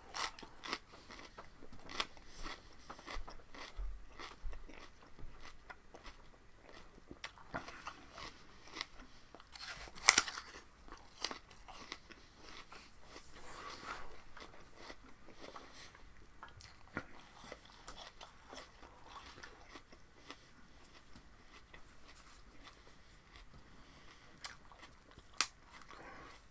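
Close-up crunching and chewing of raw asparagus: irregular crisp bites and mouth crackles, with one loud crunch about ten seconds in.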